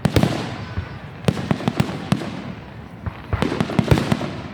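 Aerial fireworks display: a series of sharp booms and crackling bangs, one after another, bunching up at the start, again about a second and a half in, and most densely about three and a half seconds in, where the loudest bang falls.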